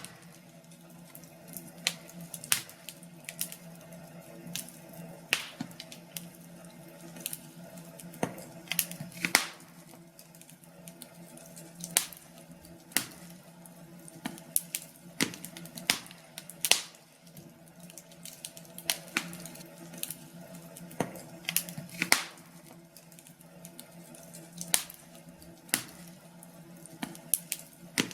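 Wood fire crackling in a fireplace: irregular sharp pops and snaps, one to three a second and uneven in loudness, over a faint steady hum.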